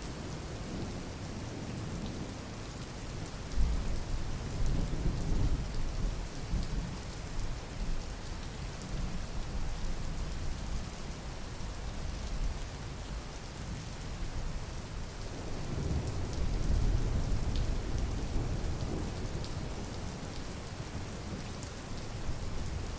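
Steady rain with two rolls of thunder. The first starts with a sudden crack about three and a half seconds in and rumbles for a few seconds; the second swells up more gradually about sixteen seconds in.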